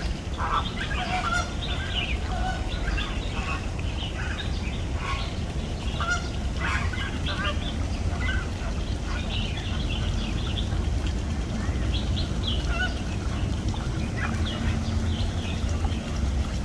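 A flock of flamingos keeps up a goose-like honking chatter, many short calls overlapping with no pause, over a steady low rumble.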